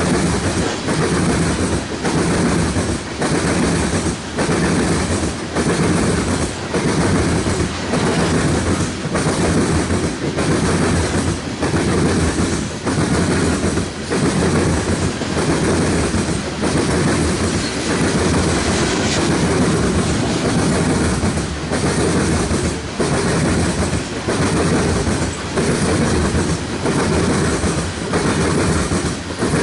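Freight train cars rolling past, their wheels clacking over rail joints in a steady rhythm of roughly one beat every three quarters of a second.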